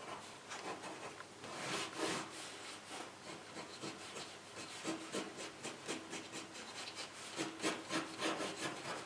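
Pen scratching across watercolour paper in quick, repeated sketching strokes, several a second, unevenly loud.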